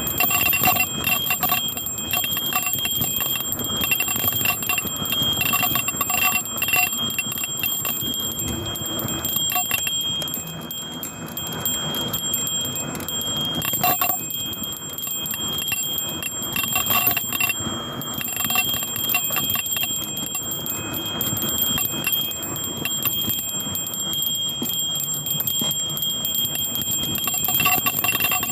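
A bell on a mountain bike ringing and jangling nonstop as the bike is shaken over a rough downhill trail, with the rush of riding noise underneath. The ringing eases for a few seconds around the middle.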